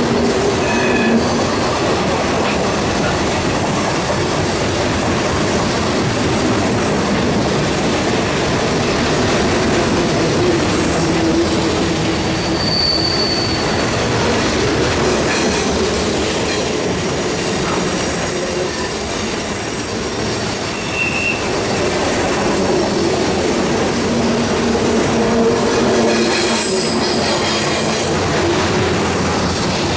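CN grain train's freight cars rolling past: a steady rumble and clatter of steel wheels on the rails, with brief high wheel squeals now and then.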